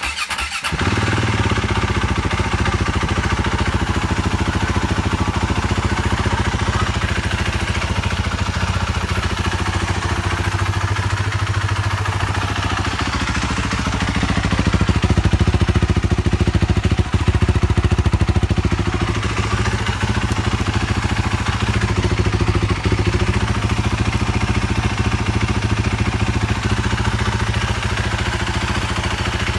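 BMW G450X's single-cylinder four-stroke engine idling steadily, running a little louder for a few seconds about halfway through.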